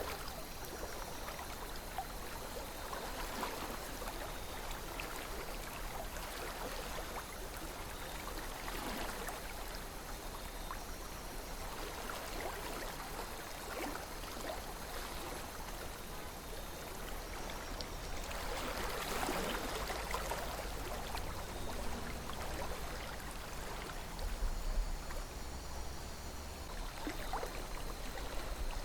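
River water flowing and gurgling steadily over stones, with a louder gush about two-thirds of the way in.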